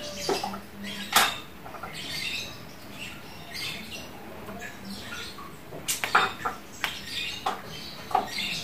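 Lovebird calling in a string of short, shrill chirps and chatter, with several sharp clicks in between, the loudest bunched in the second half.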